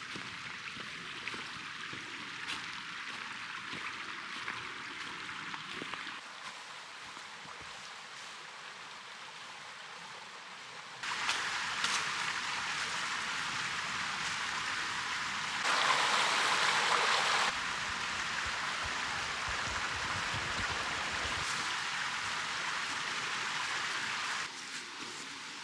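Steady rushing of running water, like a mountain stream, heard in several short takes that change level abruptly. It is loudest for a couple of seconds past the middle.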